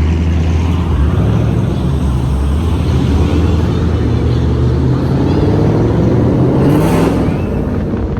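Car engine running loudly close by, its pitch climbing near the end as it is revved.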